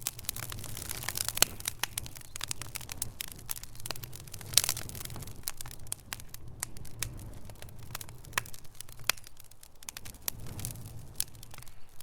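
Wood fire in a fireplace crackling: irregular snaps and pops over a steady low rumble of the flames, with a louder pop about four and a half seconds in.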